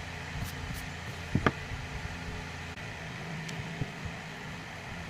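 A steady low hum with a faint noise haze, broken by two quick sharp clicks close together about a second and a half in.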